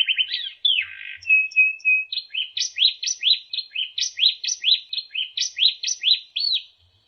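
White-rumped shama (murai batu) singing: a rapid trill and a few falling notes, a short level whistle, then a run of quick upward-sweeping notes, about four a second, that stops near the end.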